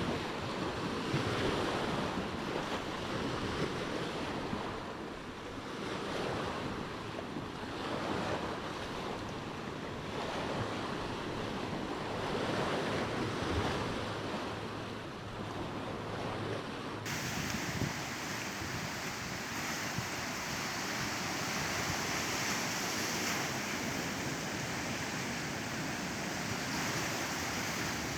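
Ocean surf with wind: waves rise and fall every few seconds, then about seventeen seconds in the sound switches abruptly to a steadier, hissier wash of surf.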